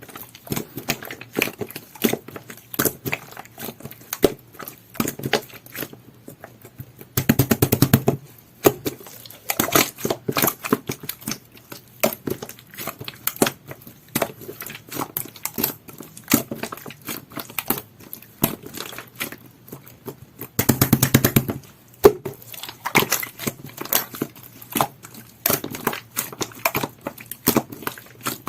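Pink two-layer jelly-textured slime being squished and pressed by hand: a steady run of small sticky clicks and pops, with two denser stretches of rapid crackling, about seven seconds in and about twenty-one seconds in.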